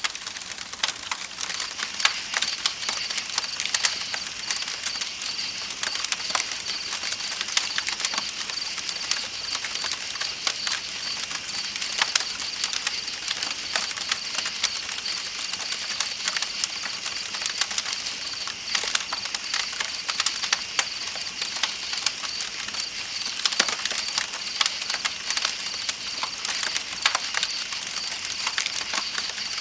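Campfire crackling with frequent sharp pops, over a continuous high trill of night insects and the steady hiss of flowing river water.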